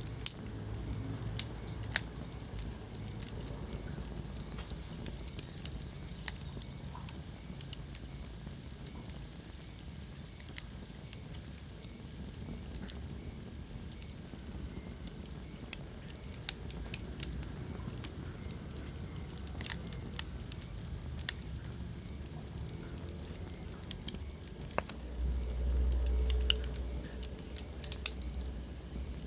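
Wood fire burning in a fireplace: scattered sharp crackles and pops over a steady low hiss. A louder low rumble rises for about two seconds near the end.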